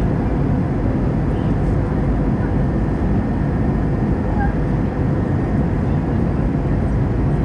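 Steady cabin noise inside an Airbus A320-214 in flight: a constant rush of airflow and the drone of its CFM56 engines, heavy in the low end.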